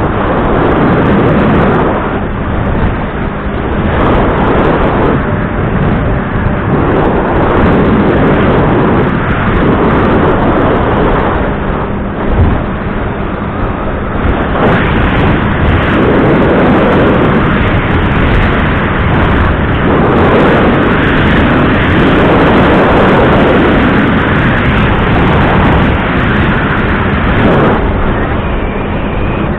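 A small fishing boat's outboard motor running with the boat under way, under a loud rush of wind and water that swells and eases every few seconds.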